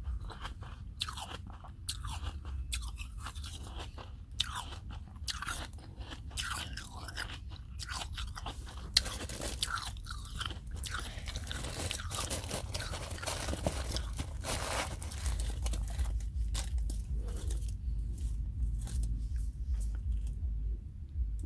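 Snow crunching close to the microphone: a run of short, crisp crunches, becoming denser and continuous about nine seconds in, then sparser again near the end.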